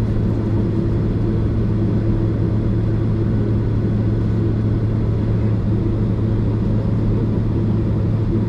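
Steady drone of a Boeing 767 jetliner heard inside the passenger cabin: a constant low hum over even engine and airflow noise, without change.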